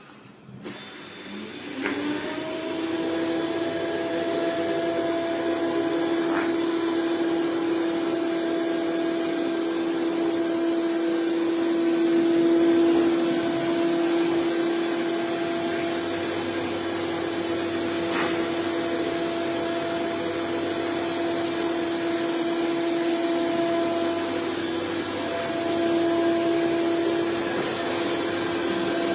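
Suction motor of an iRobot Roomba Plus 405 Combo system spinning up with a rising whine about two seconds in, then running steadily with a constant whine over a rushing air noise. The pitch dips briefly once near the end.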